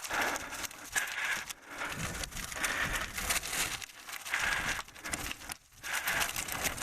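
Bicycle tyres rolling and crunching over loose gravel on a climb, with irregular crackles and pulses.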